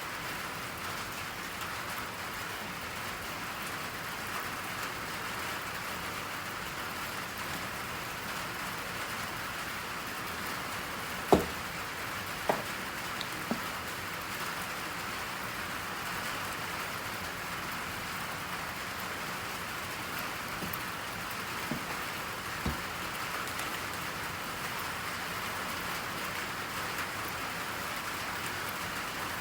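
Steady rain, an even hiss of rainfall without a break. A few short knocks cut through it: three in quick succession about eleven to thirteen seconds in, the first the loudest, and two softer ones a little past twenty seconds.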